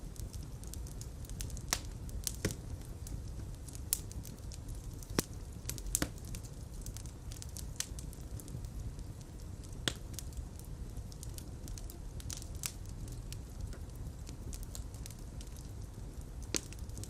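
Fireplace fire crackling: irregular sharp pops and snaps over a steady low rumble of flames, with a few louder pops around the middle.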